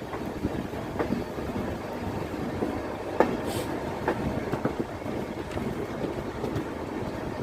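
Indian Railways passenger train running along the track: a steady rolling rumble of the coaches with irregular sharp clicks of the wheels over rail joints, the loudest a little after three seconds in.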